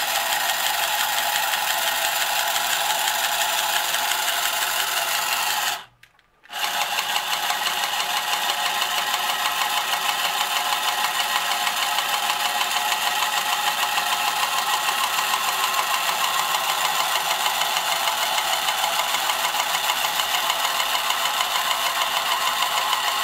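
Marx Moon Scout tin toy helicopter's small battery-powered electric motor and gearing whirring steadily as it spins the rotors. The whirr cuts out for about half a second around six seconds in, then starts again.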